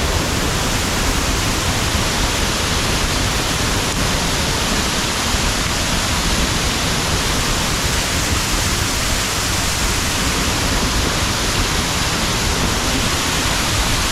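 A waterfall's falling water making a loud, steady, unbroken rush.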